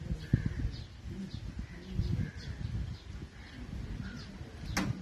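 Birds chirping, short calls repeating about twice a second, over a low, irregular rumble on the microphone; one sharp click near the end.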